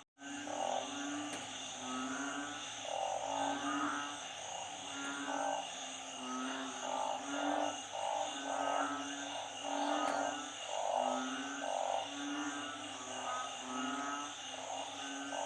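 Chorus of frogs and narrow-mouthed frogs calling: many overlapping short croaks, some low and some higher-pitched, repeating about once a second over a steady high-pitched ringing.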